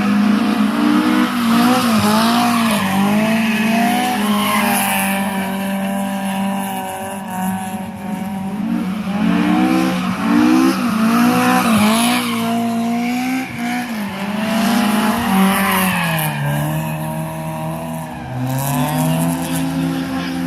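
Honda F20C four-cylinder engine in a Datsun 1200 rally car, revving hard. Its note climbs and drops again and again as the car accelerates, shifts and lifts through a stage, with tyre squeal at times.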